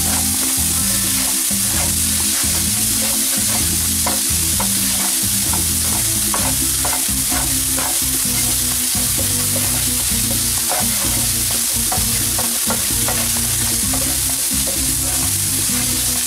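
Spring onions and sliced garlic sizzling in oil in a frying pan, with a wooden spatula repeatedly scraping and tapping against the pan as they are stirred.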